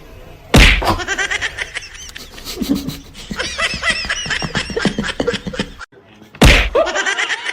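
People laughing: two bouts of rapid, pulsing laughter, each opening with a loud burst, the second starting about six and a half seconds in.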